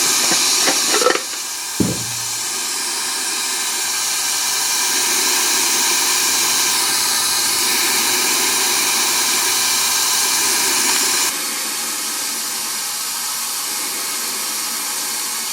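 HVLP spray gun fed by an air compressor, hissing steadily as it sprays zinc primer. A single short knock comes about two seconds in, and the hiss drops a little in level about a second in and again about eleven seconds in.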